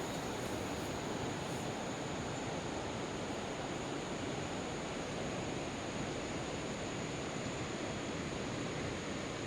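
Heavy rain falling steadily, an even hiss with no let-up, with a faint steady high-pitched tone running through it.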